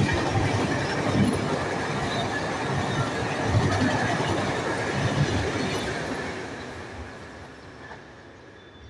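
Train running on the rails: a steady rumble and rattle of wheels and cars with a thin high squeal, fading away over the last few seconds.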